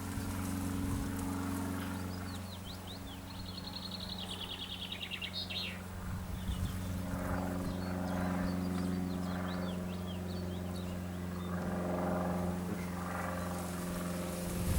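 A steady low engine-like drone runs throughout. Small birds chirp over it, and one gives a short rapid trill a few seconds in.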